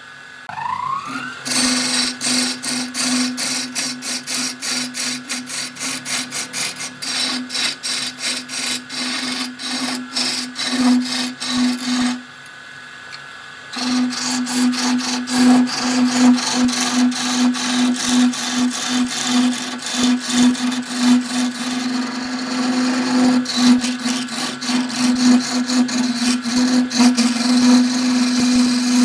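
Wood lathe spinning up, its motor whine rising in pitch, then running with a steady hum while a turning tool cuts the spinning wood in a fast series of sharp scraping strikes. The sound breaks off for a moment around twelve seconds in, then picks up again.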